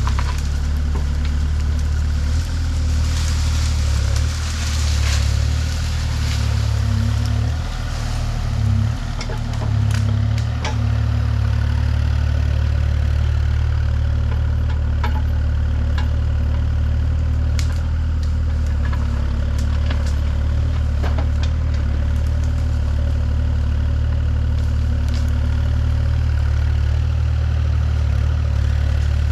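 An engine running steadily at a low, even pitch. Its note wavers and dips briefly about eight to ten seconds in, with scattered clicks and knocks over it.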